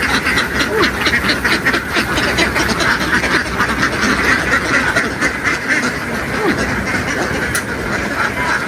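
A flock of ducks quacking without a break, many calls overlapping.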